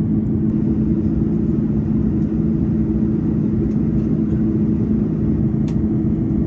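Steady cabin drone inside an Airbus A330 airliner: constant low rumble of engines and airflow with a steady hum, no change in level.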